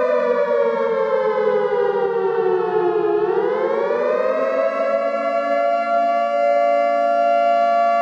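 A siren wailing: a steady, rich tone that slides down in pitch for about three seconds, climbs back up over the next two, and then holds level.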